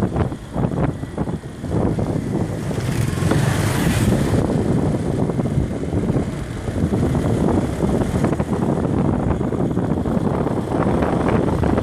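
Motorbike riding: the engine running under a constant wind rumble on the microphone, with a brief louder hiss about three seconds in.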